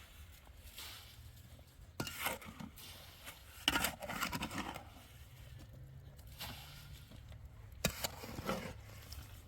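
Five short scrapes, each starting with a knock, like hard objects or tools scraping and striking, over a steady low hum.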